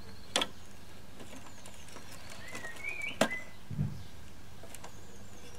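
Birds chirping and whistling in the background, with two sharp knocks, one about half a second in and a louder one about three seconds in.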